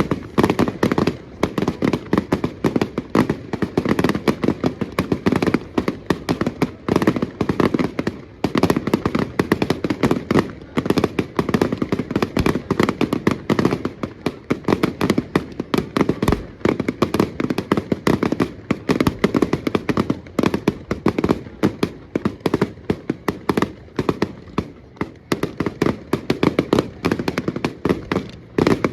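Firecrackers going off in a dense, continuous run of rapid pops and crackles, many a second, with no let-up.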